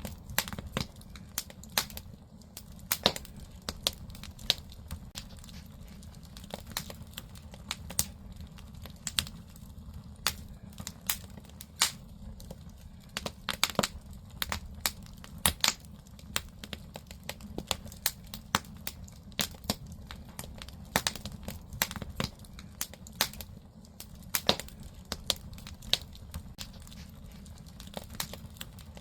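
Firewood burning in a traditional Korean agungi firebox: irregular sharp crackles and pops, some loud, over a low steady rumble of the fire.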